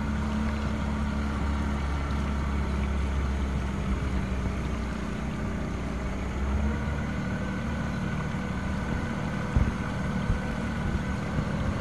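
An engine running steadily at an even pitch, its tone shifting slightly about six and a half seconds in, with a couple of brief knocks near the end.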